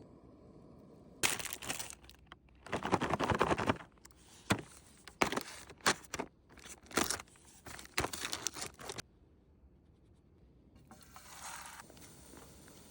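Crinkling, tearing and scraping of food packaging being handled, in irregular bursts that die down after about nine seconds.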